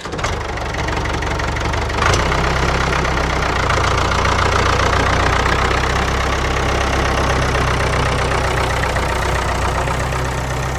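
Miniature diesel engine driving a small water pump, running steadily with a rapid knocking beat. It gets louder about two seconds in.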